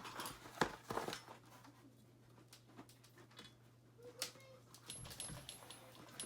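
A few sharp clicks and knocks from parts and tools being handled while a coolant hose is worked off the dirt bike, with a faint high tone near the end.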